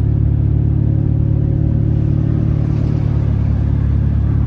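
Built Volkswagen Jetta's engine and exhaust running at low, steady revs as the car creeps along at walking pace: a loud, even drone with no rise or fall in pitch.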